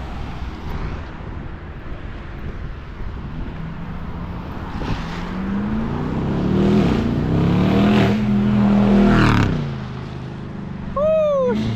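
Car engine accelerating hard, the revs climbing with a brief dip as it shifts gear, then held high and loud before dropping off. Sharp exhaust pops crackle through it, described as 'that popping'.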